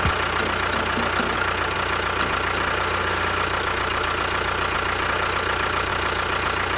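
A small engine running steadily at idle, with a constant hum and a thin high whine over it. There are a few faint ticks in the first couple of seconds.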